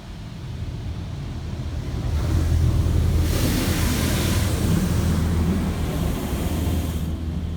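High-pressure rinse spray from a PDQ LaserWash M5 touchless car wash hitting the car, heard from inside the cabin. The spray builds over the first couple of seconds, is loudest for about four seconds, and cuts off suddenly near the end. A steady low hum runs underneath.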